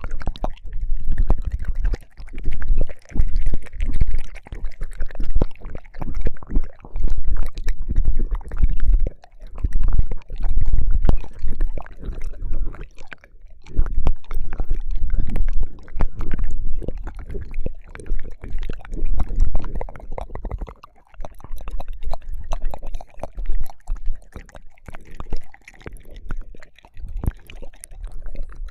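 Close, wet ear-licking mouth sounds on a binaural microphone: tongue smacks and slurps with loud low thumps from contact with the mic, coming in irregular bursts.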